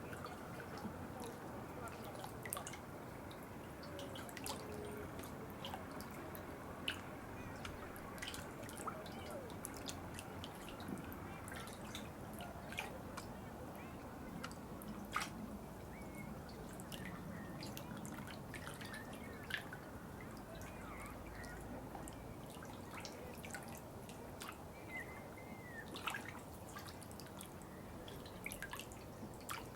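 Water trickling steadily, with many sharp drips and small splashes at irregular intervals.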